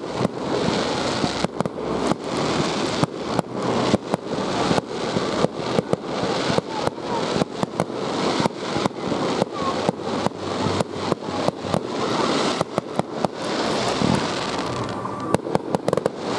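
Aerial fireworks going off in rapid succession, several sharp bangs a second over a continuous rumble of bursts. A tight cluster of quick reports comes near the end.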